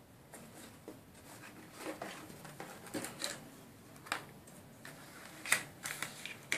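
Small objects being handled on a work surface: irregular light clicks, taps and scraping sounds.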